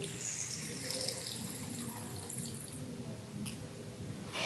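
Water spurting up a glass tube into a flask and splashing inside it during the ammonia fountain experiment: the ammonia dissolves and leaves a vacuum that draws the water in. A sharp click about three and a half seconds in.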